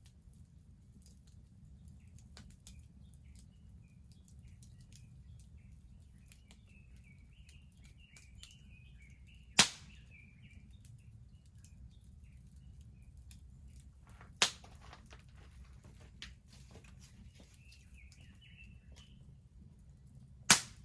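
Wood bonfire crackling, with small crackles throughout and three loud, sharp pops about five seconds apart, the first about ten seconds in. Small birds twitter faintly in the background.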